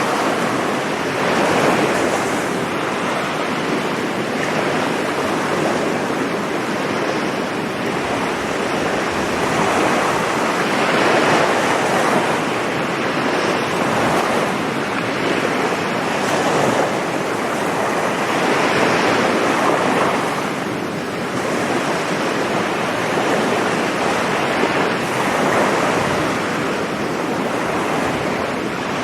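Sea surf breaking and washing on a beach, a steady rush that swells every few seconds as each wave comes in, with wind buffeting the microphone.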